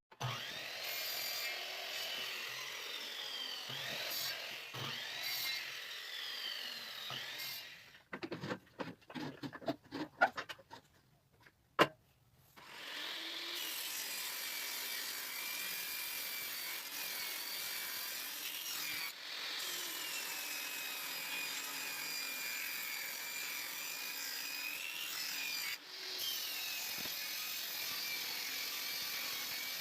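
Power tool working wood, its high-pitched motor running with the pitch wavering and dipping under load. About eight seconds in it stops for a few seconds of wood clattering and knocks, with one sharp knock, then runs steadily again with two brief dips.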